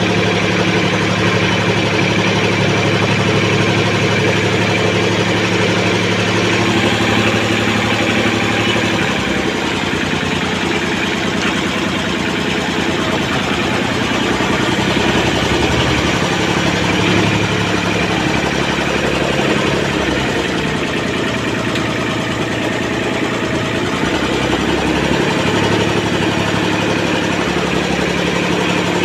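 1986 Kubota 32 hp farm tractor's diesel engine running. Its note holds steady, shifts and wavers from about nine seconds in, then settles back to a steady note near the end.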